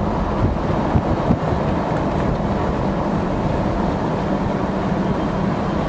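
A vehicle driving along a road: steady engine and road noise with a constant low hum.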